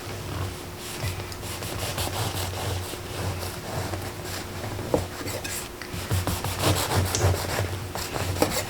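Repeated rubbing and scraping strokes, heaviest in the last few seconds.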